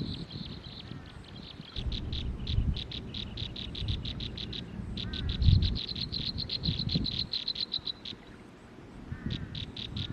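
Rapid, evenly spaced high-pitched chirping pulses, several a second, in runs of a few seconds with short gaps. A few brief falling bird chirps come in between, over a low rumble.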